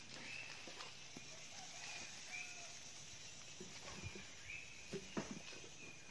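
A bird repeating a short high call every second or two, over soft scraping and rustling as soil is scooped by hand into a plastic sack, with a couple of sharper knocks about five seconds in.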